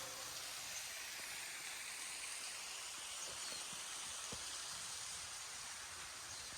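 Faint steady outdoor hiss, with a few soft ticks a little past the middle.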